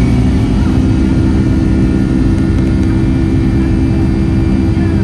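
Boeing 757-300 cabin noise in flight: a loud, steady drone of the jet engines and airflow, with a low hum and a few steady tones.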